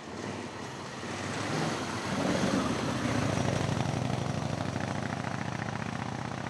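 Vintage racing car engine at full throttle, getting louder as the car approaches, loudest about two to three seconds in, then slowly fading as it climbs away.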